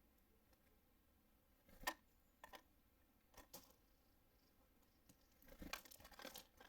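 Small birds at a seed feeder, pecking and shuffling: a sharp tap about two seconds in, a few lighter taps, then a cluster of scratchy rustles near the end.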